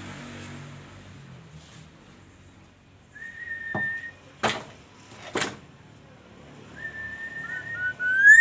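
Kepodang emas (oriole) giving fluty whistled calls: two held whistles on one even pitch, then near the end a louder whistle that slides up and drops sharply. Two sharp clicks fall between the calls.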